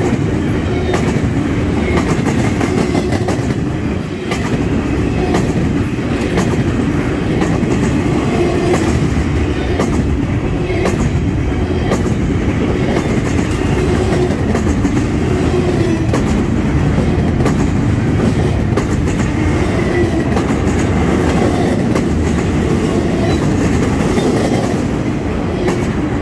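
A freight train's empty double-stack intermodal well cars rolling past, a steady loud rumble with the clickety-clack of wheels over the rails and many sharp clicks and rattles.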